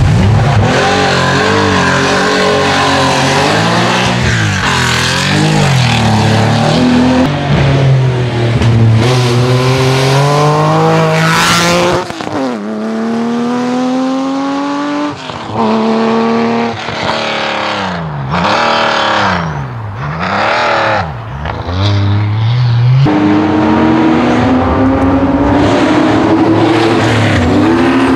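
Classic Porsche 911 rally cars' air-cooled flat-six engines at full throttle. The revs rise and fall through a tight corner, then climb repeatedly as the car accelerates up through the gears, dropping back at each shift. In the middle the revs fall and rise sharply several times, and near the end they build again as another 911 comes in.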